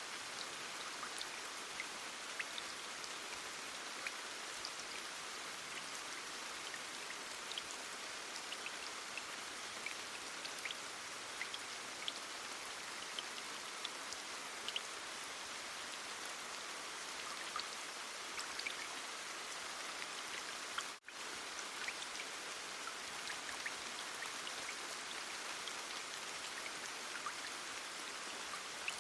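Heavy rain falling steadily, an even hiss with individual drops ticking through it. The sound drops out for a split second about three quarters of the way through.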